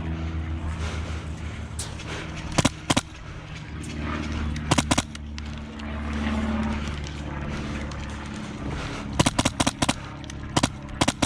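Airsoft guns firing: short groups of sharp pops about two and a half and five seconds in, then a quicker string of shots from about nine seconds on, over a steady low hum.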